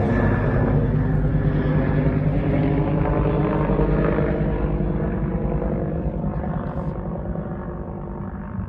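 Military helicopter flying past, its rotor and engine sound fading steadily as it moves away.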